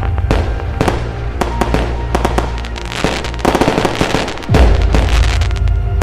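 Fireworks bursting with sharp bangs and crackling, mixed with an epic cinematic action music track with deep sustained bass that swells again about four and a half seconds in.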